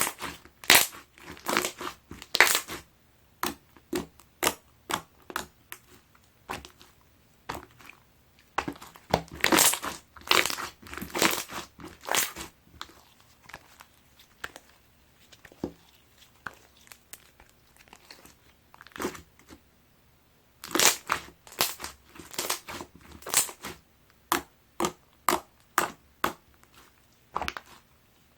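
Clear slime with gold pearl being pressed, squished and stretched by hand, giving sharp sticky pops and crackles. The pops come in dense flurries three times, with single pops about every half second between them.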